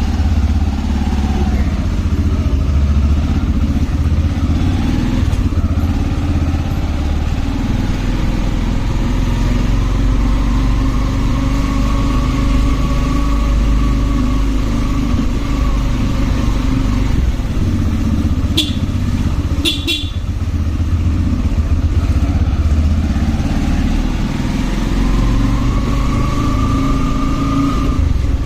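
Motorcycle riding in traffic: a steady low engine drone mixed with wind and road noise, its pitch slowly rising and falling with the throttle and rising again near the end. About two-thirds of the way in come two brief high-pitched toots.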